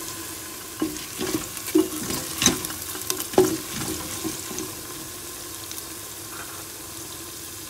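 Sliced onions and cumin seeds sizzling in hot oil in a steel pot. For the first four seconds or so a wooden spoon stirring them knocks and scrapes against the pot; after that there is only the steady sizzle.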